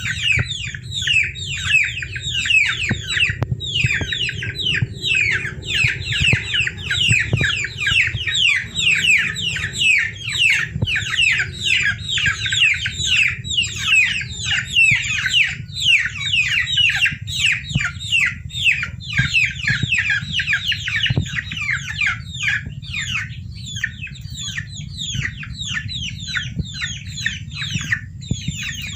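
A group of baby chicks peeping without a break: many short, high peeps sliding down in pitch, overlapping several to the second, over a steady low hum.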